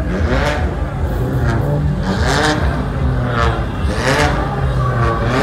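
Car engines running at a car meet, with revving.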